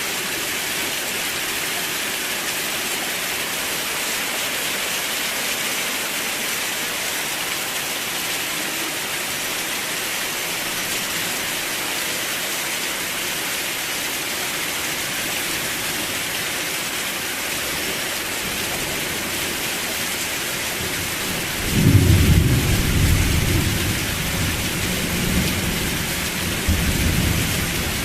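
Steady heavy rain hissing, with a roll of thunder breaking in near the end and rumbling on in a few low swells.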